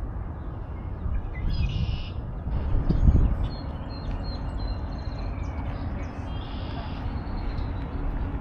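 Songbirds calling in short bursts, two clear phrases about two and seven seconds in with scattered chirps between, over a steady low rumble that swells briefly about three seconds in.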